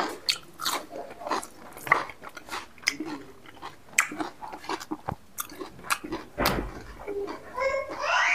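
Close-miked mouth sounds of a man eating by hand: chewing with frequent short wet clicks and smacks. A voice starts briefly near the end.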